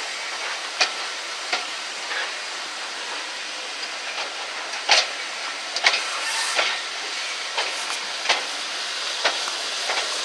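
Steam-hauled passenger train rolling slowly, heard from an open carriage window: a steady hiss with irregular clicks and knocks of the wheels over rail joints and points.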